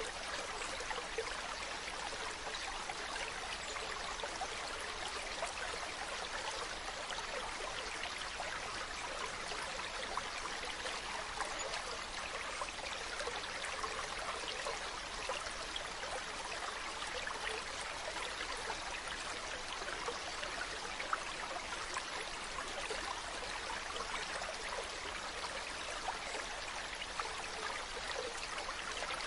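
Mountain stream running over rocks: a steady, even rush of water with fine splashing and trickling.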